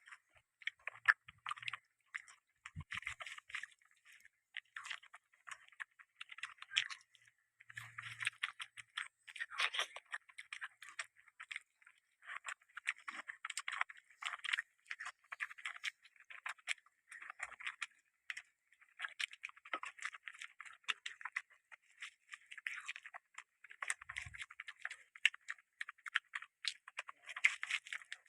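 Close-miked chewing of food: clicking, crackling mouth sounds in irregular bunches with short pauses between them.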